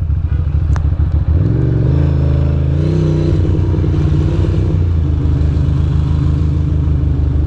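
2006 Ducati Monster 620's air-cooled L-twin engine running low, then pulling away about a second in, its note rising and stepping through gear changes before settling to a steady cruise.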